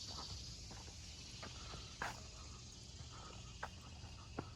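Faint woodland insect chorus, a steady high hiss-like drone, with a few soft clicks about two, three and a half, and four and a half seconds in.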